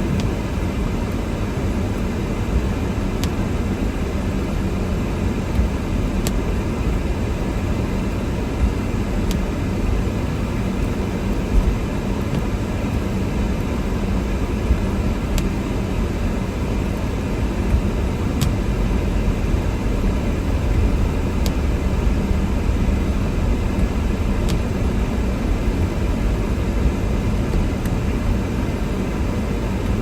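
Steady in-cabin drone of a car driving through snow: engine and tyre noise with wind, heaviest in the low end. A faint click sounds about every three seconds.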